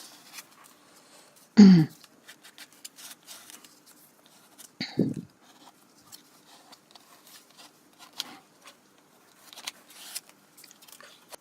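A card scraping and pressing paper scraps down into wet matte medium: faint, scattered scratchy rubbing strokes, with two short louder sounds about two and five seconds in.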